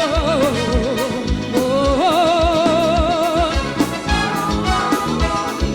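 Live forró band playing an instrumental passage: drums and bass keep a steady beat under long held melody notes with vibrato.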